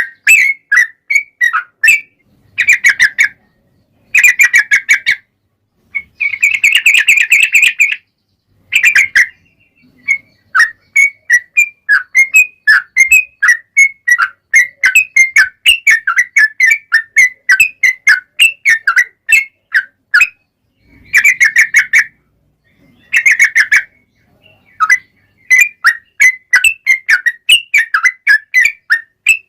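Yellow-vented bulbul (trucuk) song: rapid runs of short, bubbly whistled notes, delivered in phrases separated by brief pauses, with one long unbroken run in the middle.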